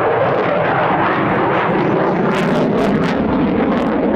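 Eurofighter Typhoon's twin Eurojet EJ200 turbofan engines at high power, a loud, steady jet noise with a few short crackles in the middle.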